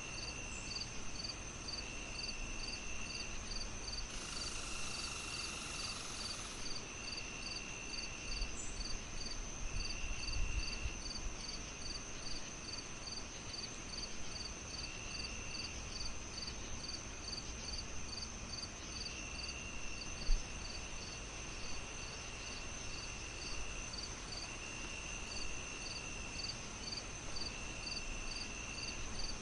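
Night insect chorus: crickets chirping steadily about three times a second over a constant high-pitched whine, with another insect's trill coming and going every few seconds and a denser buzz a few seconds in. A single soft thump about two-thirds of the way through.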